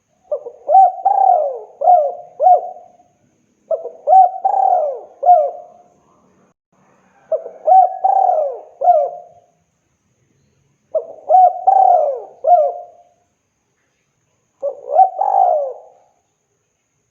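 Spotted dove (tekukur) cooing: five phrases of several throaty coos each, repeated about every three and a half seconds, the last phrase shorter. It is a male's call to a female.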